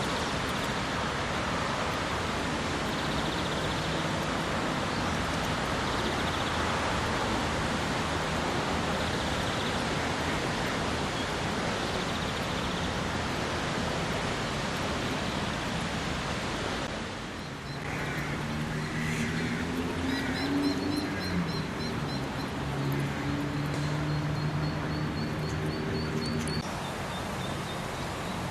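Outdoor ambience: a steady rushing noise, which drops about two-thirds of the way through. Birds then sing in runs of quick high repeated notes over a low, steady hum of a few tones.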